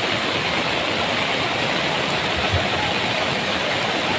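Steady rush of fast-flowing floodwater, with a brief low thump about two and a half seconds in.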